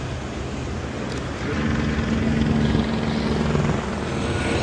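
A steady engine hum over a low rumble, growing louder for about two seconds midway and then easing back.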